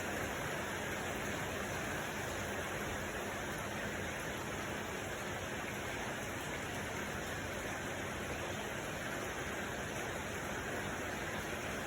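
Steady, even noise that does not change, with no separate drops, splashes or other events.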